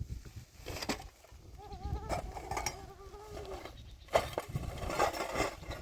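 A farm animal bleating: one long, wavering call. About four seconds in comes a louder burst of scuffling and knocking noise.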